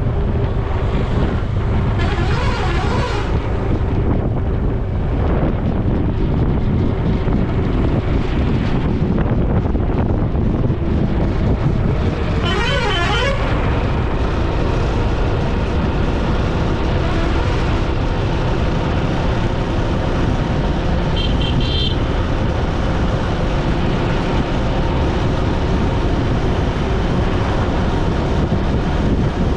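Steady road and wind rumble of a vehicle ride, with vehicle horns honking briefly three times: about two seconds in, near the middle, and about two-thirds of the way through.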